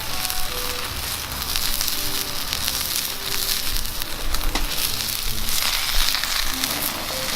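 Meat sizzling in a frying pan over a wood fire: a steady frying hiss with small pops and crackles, growing stronger about halfway through.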